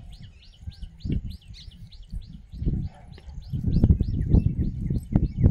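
A bird repeating a short chirp about four times a second, with low, muffled noise that grows louder in the second half.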